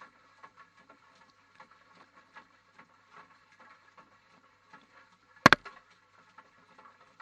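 GoPro camera tumbling in a washing machine drum: irregular light taps and patter, with one loud double knock about five and a half seconds in.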